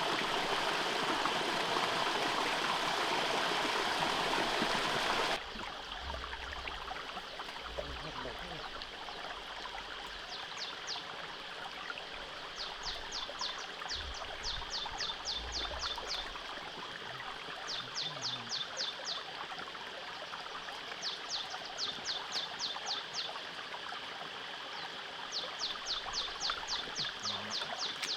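Flowing stream water rushing loudly; about five seconds in it cuts to a quieter, steady run of water. Over this, short trains of rapid high ticking repeat every few seconds.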